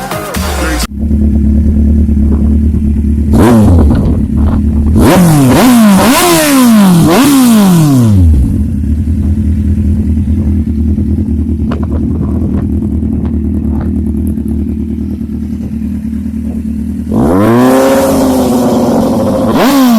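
Kawasaki Z1000 inline-four through an SC Project slip-on exhaust, loud, idling and being revved. There is one quick blip, then three revs in a row, a stretch of steady idle, and a longer rev near the end.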